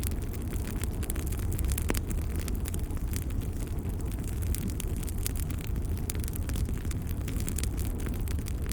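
Crackling wood fire: many small irregular crackles and pops over a steady low rumble of burning, with one sharper pop about two seconds in.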